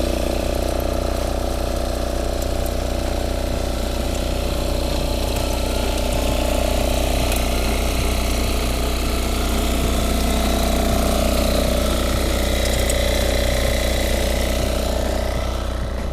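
Walk-behind tiller's engine running steadily while its rotary tines work the soil.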